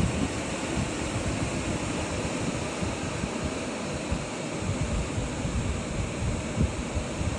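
Hurricane-force wind blowing steadily, with gusts buffeting the microphone in low, uneven thumps.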